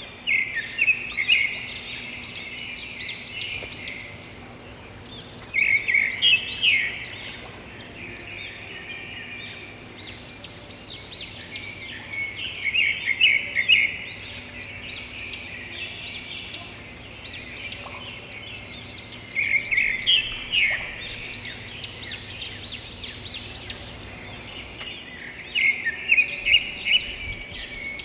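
Birds chirping and singing in lively clusters of quick, high notes that come back every few seconds.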